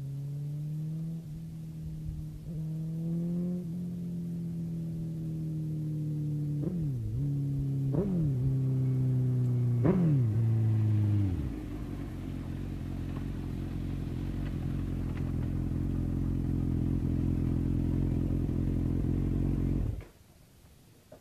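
Suzuki GSX-R1000's inline-four engine with a Yoshimura exhaust, running at a steady high pitch with several brief sharp dips. About halfway through the pitch falls away into a lower rumble, which cuts off abruptly near the end.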